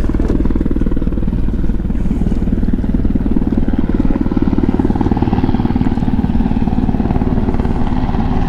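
U.S. Coast Guard helicopter flying low over the boat, a loud, steady rotor chop.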